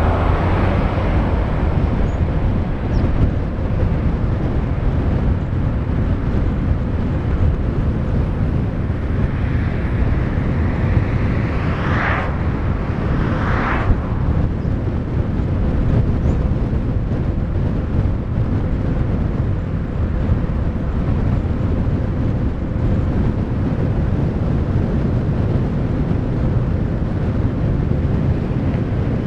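Steady low rumble of wind and road noise while riding at about 35 km/h. Two short swishes rise and fall about twelve and fourteen seconds in.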